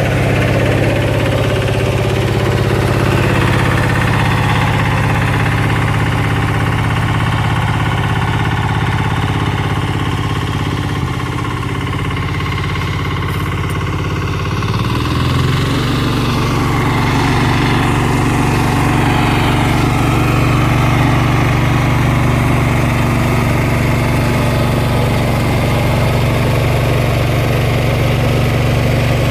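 Valpadana 4RM 180 mini tractor's diesel engine running steadily. About halfway through it sags in speed for a few seconds and then picks back up.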